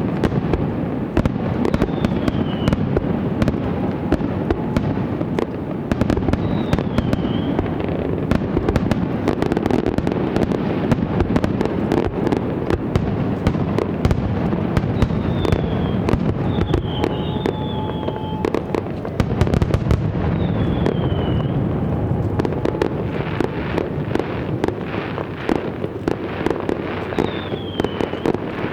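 Aerial fireworks display going off without pause: dense rapid crackling and booming shell bursts, with several short falling whistles along the way.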